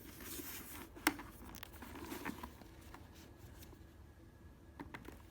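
Faint handling noise of an ABS-shelled flip-front motorcycle helmet: light rubbing and rustling, with one sharp plastic click about a second in and a couple of small clicks near the end.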